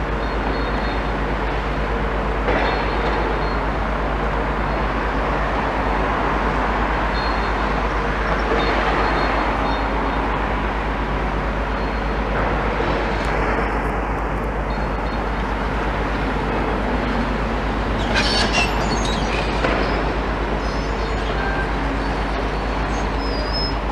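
Steady rumble of demolition excavators' diesel engines mixed with traffic noise, with a brief clatter of impacts about 18 seconds in.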